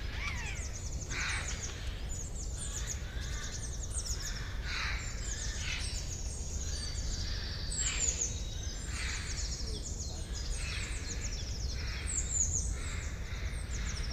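Forest bird chorus: many small birds chirping and trilling without pause, with harsher, lower calls every few seconds, over a steady low rumble.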